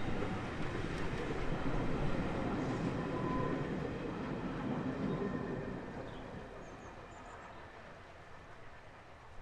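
A steam-hauled heritage train running by on the line. Its noise is steady at first, then fades away over the last few seconds as it moves off.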